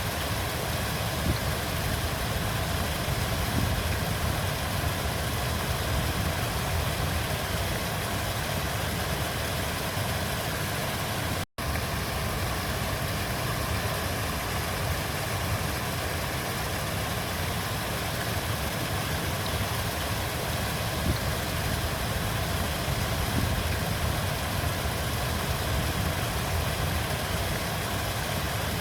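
River water flowing steadily, with a strong low rumble. The sound cuts out for an instant about eleven seconds in.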